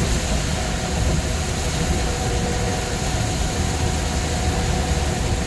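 Steady engine and road rumble of a vehicle on the move, with a faint steady whine over it.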